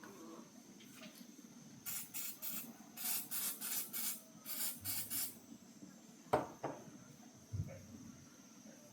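A spray hissing in about a dozen short, quick bursts, in three groups, followed by a sharp click and then a low thump.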